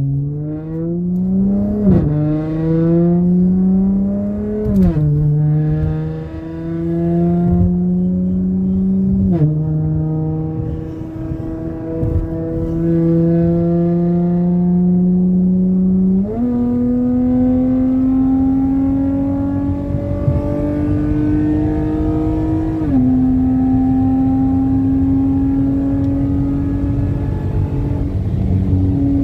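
Car engine through a Magnaflow MagnaPack performance exhaust, accelerating hard, its pitch climbing and dropping with three quick upshifts in the first ten seconds. After that it jumps higher, shifts once more and settles to a steady cruise.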